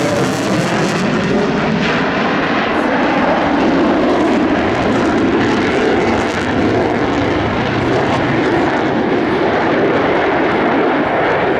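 Loud, steady jet roar of an F-22 Raptor's twin Pratt & Whitney F119 turbofans during a flying display.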